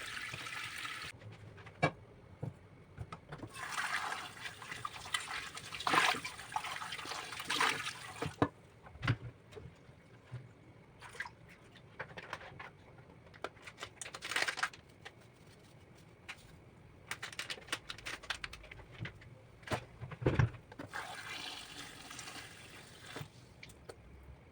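Water running in three short spells, with scattered light clicks and knocks in between.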